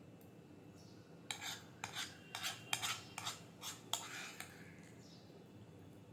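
Cutlery scraping and clinking against a plate of khichuri: about eight short, sharp strokes in quick succession over a few seconds, as food is scooped up.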